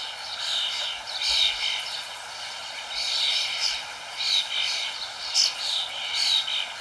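Birds chirping in short high bursts, roughly once a second, over a steady background hiss.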